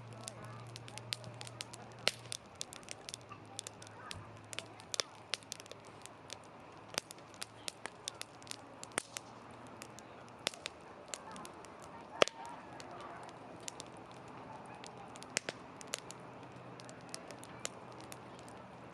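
Wood campfire crackling, with irregular sharp pops and one louder pop about twelve seconds in.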